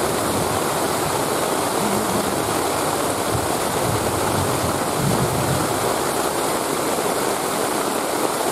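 Steady rushing water, with no break or change.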